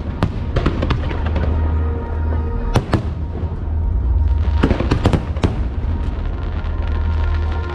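Aerial fireworks bursting in irregular clusters of sharp bangs and crackles, over continuous show music.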